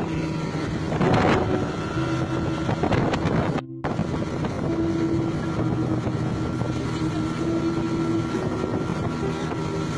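A motorboat's engine running steadily under wind on the microphone, with two louder rushing surges about one and three seconds in, and the sound cutting out for a moment just before four seconds.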